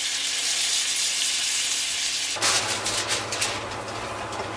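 Butter and puffball mushroom slices sizzling in a frying pan, a steady hiss. About two and a half seconds in, a steady low hum starts and aluminium foil crinkles for about a second.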